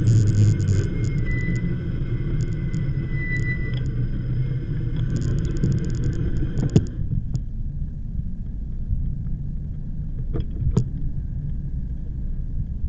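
Low rumble of wind buffeting the microphone and tyres running on the path while riding an e-bike. A fast light clicking runs over it and stops about seven seconds in, after which the rumble is quieter.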